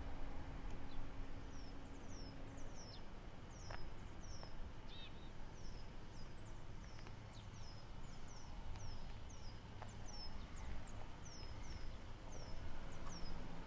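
Small birds chirping: a steady run of short, high chirps, two or three a second, over a low background rumble. A low steady hum stops about two and a half seconds in.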